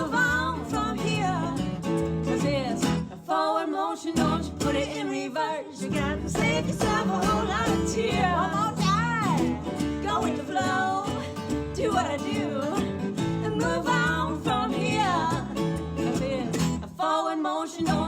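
Acoustic country/folk band playing an instrumental break: strummed acoustic guitar under a harmonica lead with bending, sliding notes.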